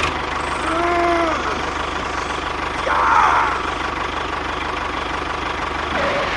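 Small engine running steadily with a rapid, even beat. A brief louder rushing burst comes about three seconds in.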